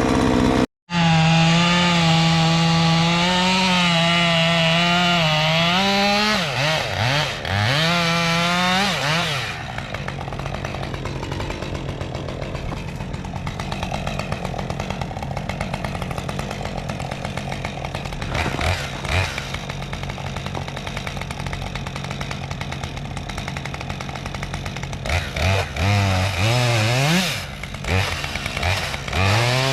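Two-stroke chainsaw running at high revs, its pitch wavering and dipping and rising a few times. For a long middle stretch it runs lower and rougher, as when working through wood, then revs back up near the end.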